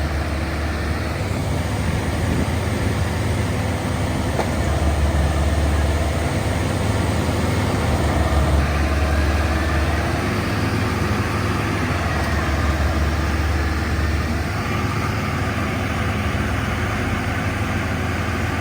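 Farm machine's diesel engine running hard and steadily under heavy load, a continuous low drone with a faint whine that wavers in pitch. The machine is straining, which the operator calls too heavy.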